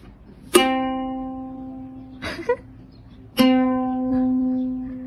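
Plucked string instrument, ukulele-like, sounding two notes about three seconds apart. Each note rings on and slowly fades, with a short, noisy sound between them.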